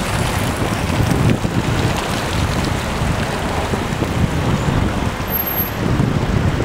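Wind buffeting the camera's microphone, a loud, uneven low rumble that swells and eases in gusts.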